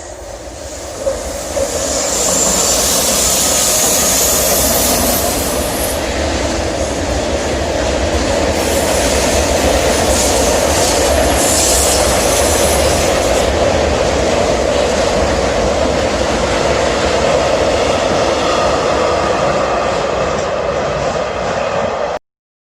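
Train running past close by: a loud, steady rail rumble that builds over the first two seconds and then holds, with a high hiss that comes and goes twice above it. It cuts off abruptly near the end.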